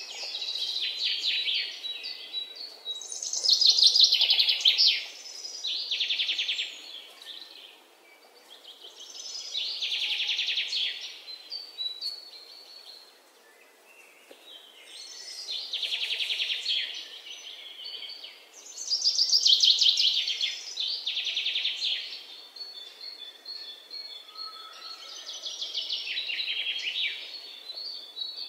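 Songbirds singing: bursts of rapid, high chirping trills a second or two long, repeating every few seconds.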